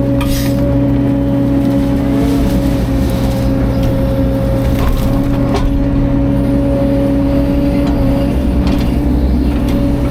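Diesel engine of a CAT 305.5 mini excavator running steadily at working revs, with a few sharp cracks and crunches over it.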